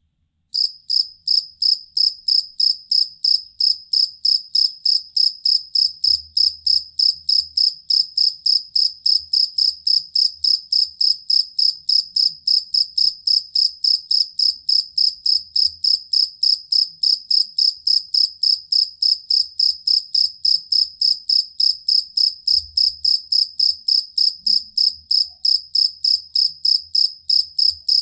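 A field cricket (jangkrik kalung) chirping steadily and shrilly, about three chirps a second, starting about half a second in.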